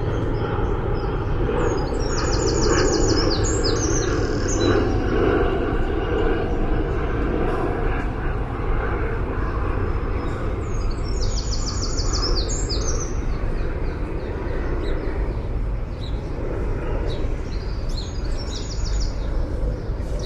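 A songbird sings three short phrases of rapid repeated high notes, spaced several seconds apart, over a steady low rumble of city traffic that swells for a few seconds near the start.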